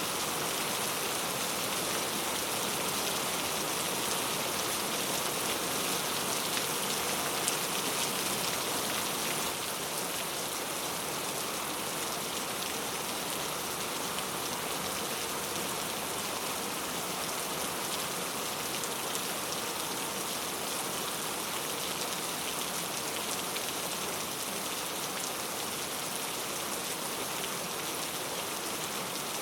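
Heavy rain falling steadily on mango leaves, a dense patter of drops on the foliage. It drops slightly in level about ten seconds in.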